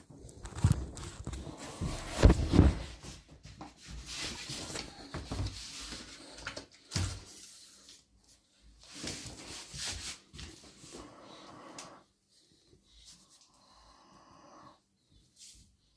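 Irregular knocks, thumps and rustling of objects being handled in a small room, the loudest thumps about two seconds in, thinning to a few faint sounds in the last few seconds.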